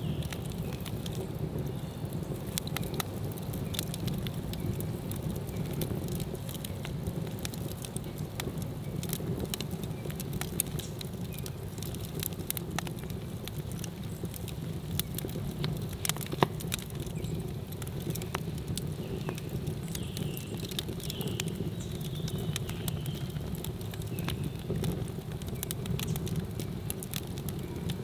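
Campfire burning: a steady low roar of flames with frequent sharp crackles and pops scattered irregularly, one louder pop about halfway through.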